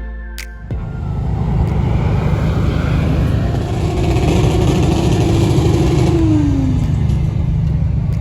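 Ford F-450 pickup truck's engine pulling hard under acceleration with heavy road noise. Its pitch drops near the end as the revs fall away.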